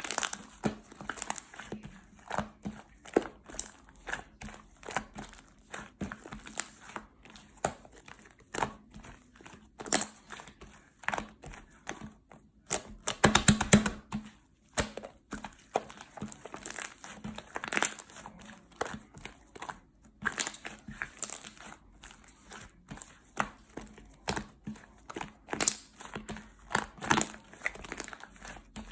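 Slime being squished and folded by hand, giving irregular clicks and pops, with a quick, louder run of pops about halfway through.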